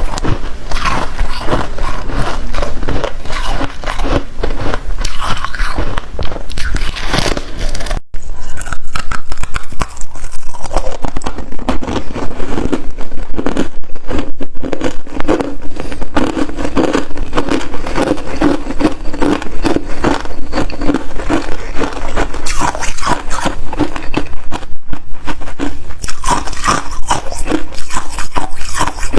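Freezer frost ice being bitten and chewed close to the microphone: loud, rapid crunching throughout, with a brief break about eight seconds in.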